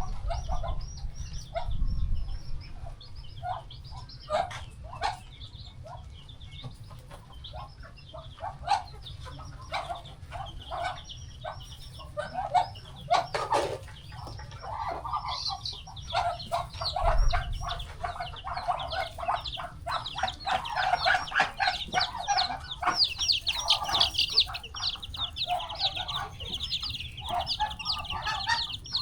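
Chickens clucking among a flock of peeping chicks. The short, high peeps come thicker and almost continuous through the second half.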